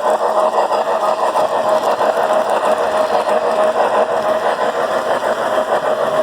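Model trains running on a layout: a steady electric-motor hum with a fast, even clicking of wheels over the track.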